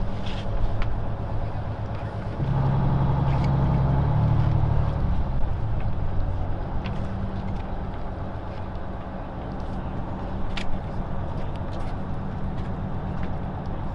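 A boat's engine and crab-pot hauling gear run with a steady low hum while a crab pot is winched up. The hum grows louder and shifts pitch for a couple of seconds, from about two and a half seconds in.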